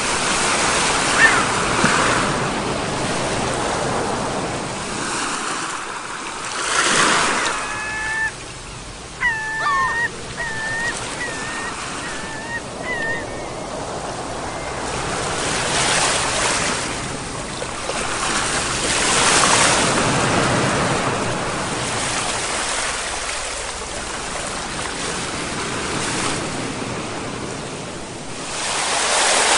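Ocean surf breaking and washing ashore in repeated swells. A string of short pitched calls, an animal's, comes through the surf a few seconds in.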